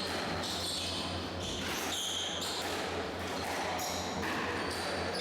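Squash rally: the ball cracks off rackets and the court walls at an uneven pace, with short high squeaks from the players' shoes on the court floor.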